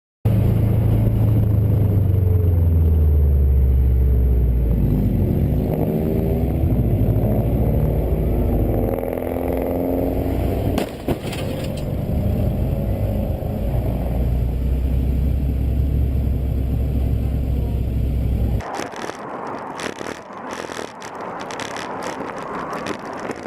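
A vehicle's engine and road noise, its pitch falling at first and then swinging up and down, with one brief sharp knock about eleven seconds in. Near the end the sound changes abruptly to a thinner, hissing, crackling noise.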